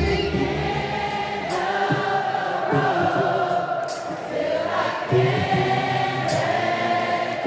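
Live R&B concert music: a crowd of voices singing along together, as a choir, over a pared-down band with the bass dropped out.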